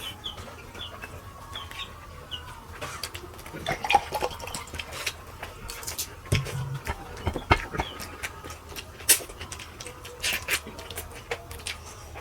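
Scattered clicks and knocks of people eating by hand from plates, with a few faint short bird chirps in the first couple of seconds.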